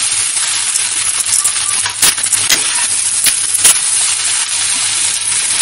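Potatoes and onions sizzling in a steel kadhai as they slow-fry on a low flame, with a spatula scraping and clicking against the pan while it is stirred. The sizzle is a steady hiss; the spatula gives scattered sharp clicks, loudest about two seconds in and again near the middle.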